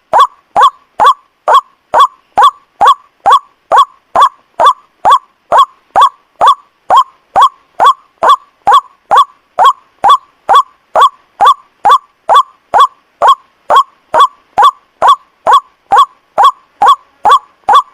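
White-breasted waterhen (ruak-ruak) call played as a bird lure: a short, loud, honking note, slightly falling in pitch, repeated evenly about two and a half times a second.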